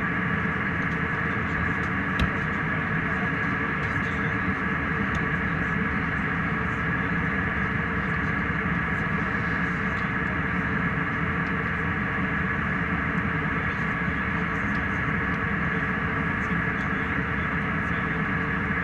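Steady cabin noise of a jet airliner in flight, a constant rushing hum with a few steady tones in it, and one small click about two seconds in.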